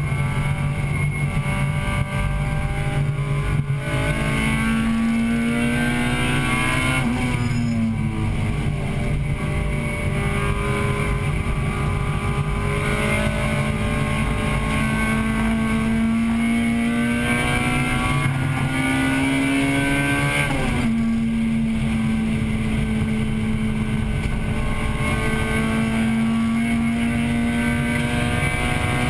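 1998 Acura Integra Type-R's 1.8-litre VTEC four-cylinder engine at racing load, heard from inside the cabin. Its pitch climbs steadily, then drops sharply twice, about seven seconds in and again about twenty-one seconds in.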